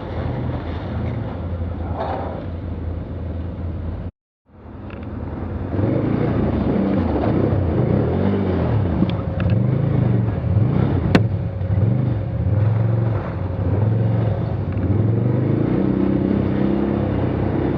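Motor vehicle engine running steadily, then after a brief dropout about four seconds in, revving up and down repeatedly as it drives on rough ground, with a sharp click about eleven seconds in.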